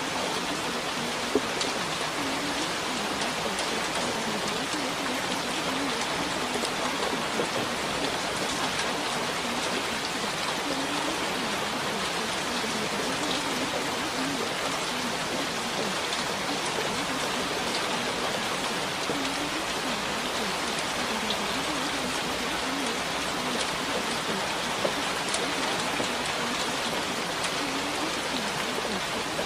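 Steady rain falling, with a continuous hiss and many small drop ticks.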